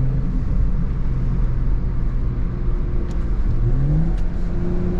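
BMW M340i's B58 turbocharged straight-six with an MST intake, running over a low road rumble. Its steady note drops away just after the start, then rises about three and a half seconds in and holds at a higher pitch, with two faint ticks along the way.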